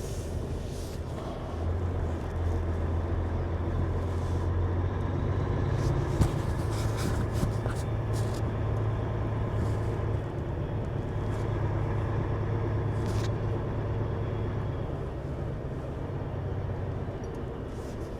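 Heavy truck's diesel engine running steadily at low speed as the rig creeps across a parking lot, heard from inside the cab, with a few scattered clicks and knocks.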